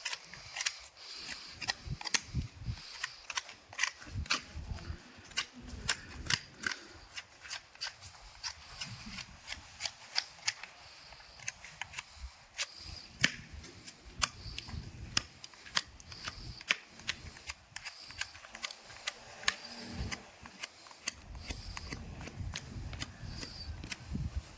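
A horse's hoof being trimmed by a farrier: a long run of sharp, irregular snaps and clicks, a few a second, as the tools cut into the hoof.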